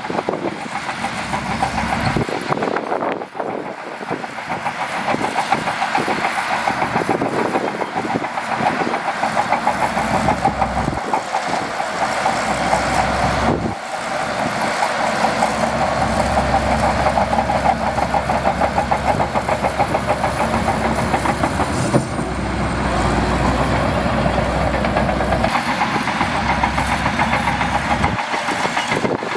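Shantui DH17C2 crawler bulldozer working, its diesel engine running under load with a rapid, continuous clatter from the steel tracks.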